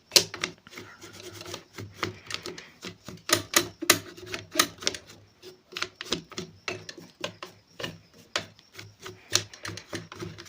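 Irregular scraping and rubbing strokes with sharp clicks as dust and grime are scrubbed off the sewing machine's metal mechanism behind the removed face plate.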